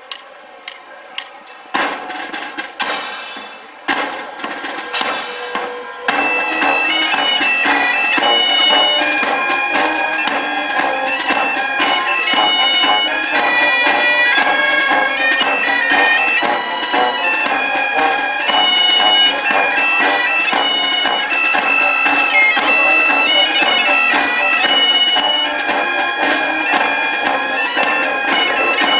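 Bagpipes strike up about six seconds in and play a tune over their steady drones. They are preceded by a few seconds of irregular noisy bursts.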